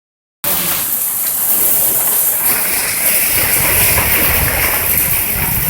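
Heavy hail and rain pouring down in a dense, steady hiss, starting about half a second in, with a low rumble joining from about three seconds in.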